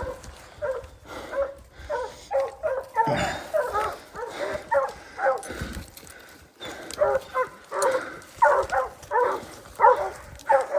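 Bear hounds barking rapidly over and over, baying at a bear they have treed, with a short lull a little past the middle.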